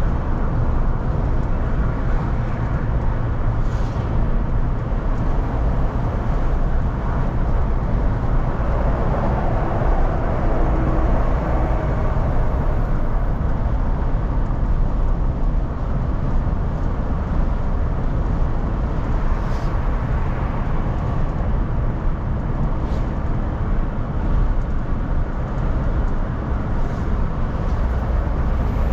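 Steady in-car driving noise heard from inside the cabin: a low engine hum with tyre and road rumble, swelling slightly around ten seconds in.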